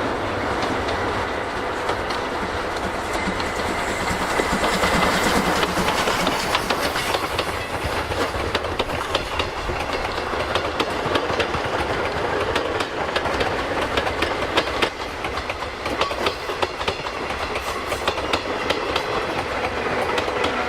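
Train hauled by the C56 steam locomotive running past, its wheels clicking in quick succession over rail joints above a steady rumble, loudest about four to seven seconds in.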